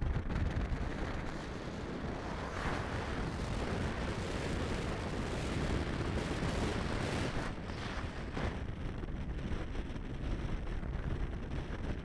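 Wind buffeting the microphone on a boat out on the water: a steady, heavy rumbling noise with no distinct tones.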